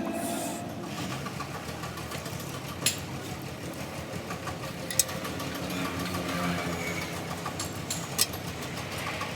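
An engine running steadily, with three sharp clicks about three, five and eight seconds in.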